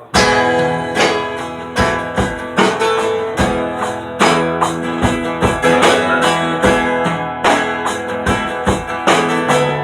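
A folk-rock band playing a song's instrumental intro, starting right on the count-in: strummed acoustic guitar over bass and drums keeping a steady beat.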